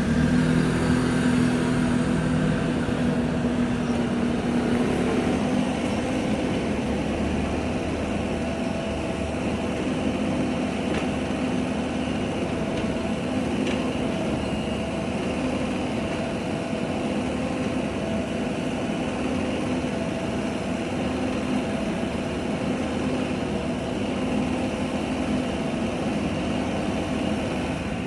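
Mini excavator's engine running steadily at a constant pitch, a little louder in the first few seconds.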